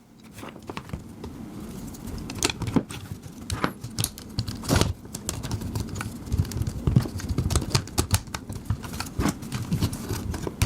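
Irregular clicks, taps and light rattles from a 3.5-inch hard drive and its metal mounting pins being handled and fitted into a PC case's drive bay.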